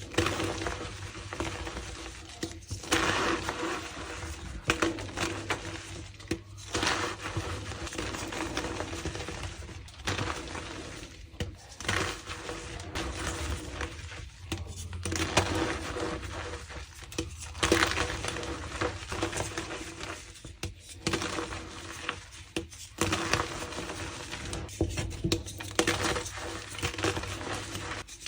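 Reformed gym chalk blocks being crushed and crumbled, dense crunching and crackling that comes in repeated bursts with short pauses between them.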